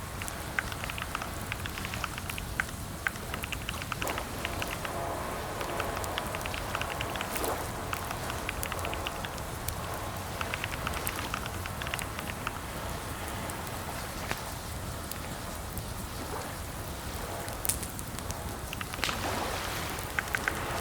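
Typing on a computer keyboard in bursts of quick keystroke clicks, with short pauses between bursts, over a steady low background hum.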